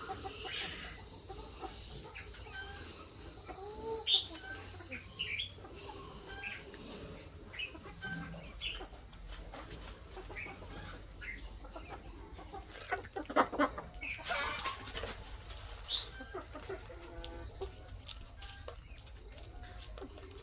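Chickens clucking with short calls scattered throughout, over a steady high-pitched whine. About two-thirds of the way in comes a cluster of sharp clicks and scrapes.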